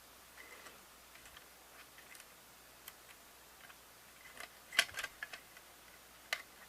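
Faint scattered plastic clicks and taps from handling the parts of a VHS cassette, with a short run of sharper clicks about five seconds in.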